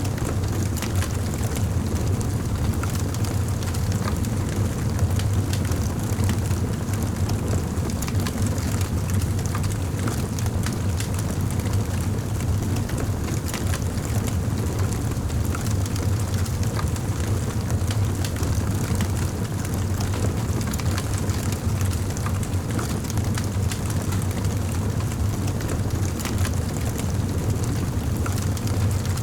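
Fire burning in a fireplace, with many small irregular crackles over a steady low rumble.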